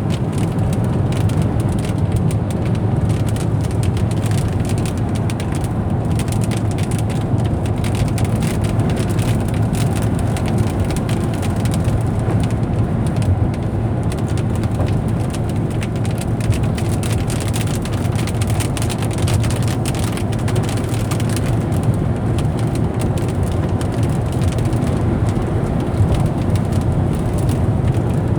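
Car cabin noise while driving at highway speed: a steady low engine and tyre rumble, with a fine crackling patter running through it.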